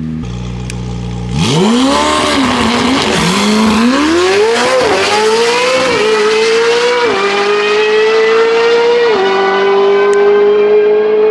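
McLaren 765LT's twin-turbo V8 drag-launching from the line: a steady low engine note, then about a second and a half in a sudden full-throttle launch. The revs climb and fall back sharply at each of about five quick upshifts as the car pulls away down the strip.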